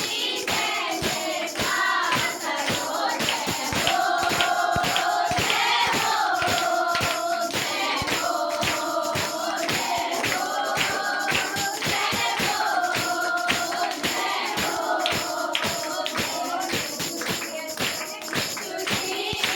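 Group of voices singing a worship song over a steady percussion beat.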